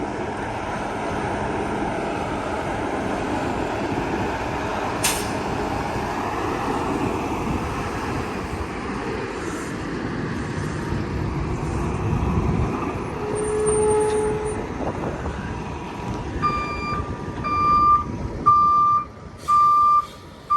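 Tractor-trailer's diesel engine running at low speed while reversing into a parking space, with a short air hiss about five seconds in. In the last few seconds a reversing alarm beeps about once a second.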